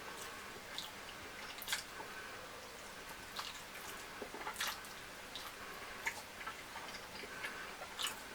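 Close-up eating sounds of a person chewing fried fish and fufu: irregular wet mouth clicks and smacks, a few to a second, over a faint steady hiss.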